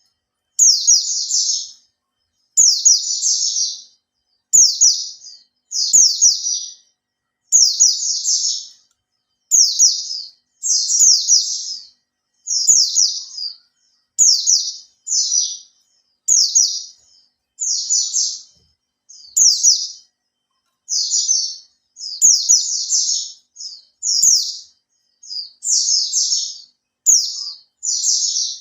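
Pleci (white-eye) singing: short, high-pitched twittering phrases of about a second each, repeated every one and a half to two seconds with brief silences between.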